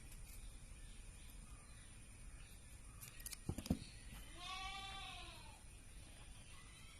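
A single drawn-out animal cry about a second long, starting about four and a half seconds in, with a few sharp clicks shortly before it.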